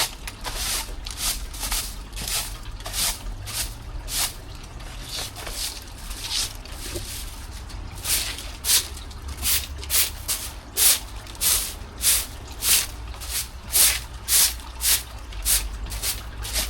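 Broom sweeping dead leaves: a steady rhythm of brushing strokes, about one and a half a second, that get louder from about halfway through.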